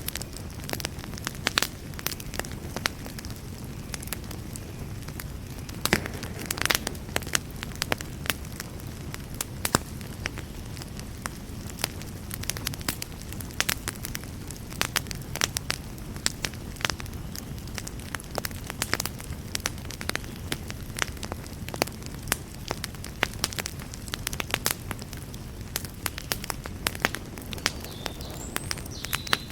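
Wood fire crackling in a fireplace: a steady low rumble of burning with many irregular sharp pops and snaps.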